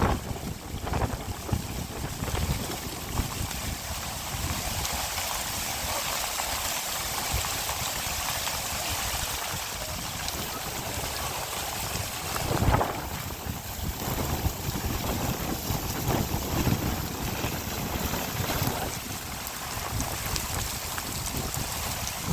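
Steady hiss of heavy rain, with wind buffeting the microphone in uneven gusts, the strongest about halfway through.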